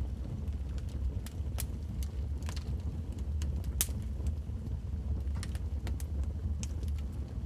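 Wood fire burning in a fireplace: a steady low rumble with irregular sharp crackles and pops, the loudest about four seconds in.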